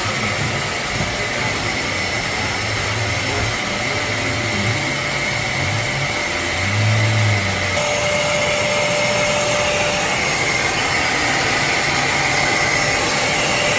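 Hoover CleanSlate Plus portable spot cleaner's suction motor running steadily. About eight seconds in, its sound shifts slightly and a faint steady whine joins it.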